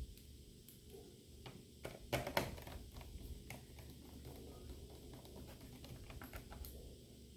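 Light clicks and taps of a plastic laptop case and small parts being handled during reassembly, with a few sharper knocks a little over two seconds in.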